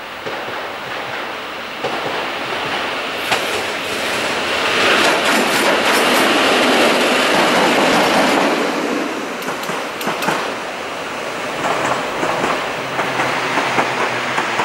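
A PKP EP07 electric locomotive running light passes close by. The running noise of its wheels on the rails builds to a peak about halfway through, then fades. Its wheels click over the rail joints a couple of times, most clearly around two-thirds of the way in.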